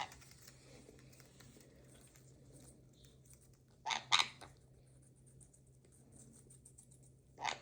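Pet conure's claws and beak making faint light clicks and scratches. Two short, louder sounds come about four seconds in and another near the end.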